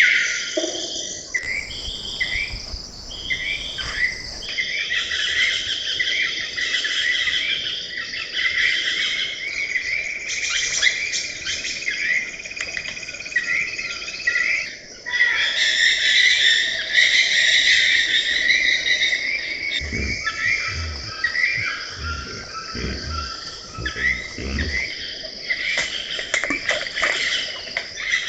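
Rainforest ambience: a dense chorus of chirring insects with birds calling over it. The mix changes abruptly a few times, and a handful of soft low thumps come in the last third.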